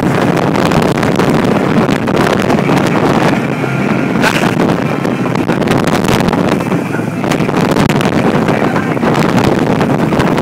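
Formula 357 powerboat running hard through big waves: wind buffeting the microphone over the steady drone of the engines and the rush of water against the hull.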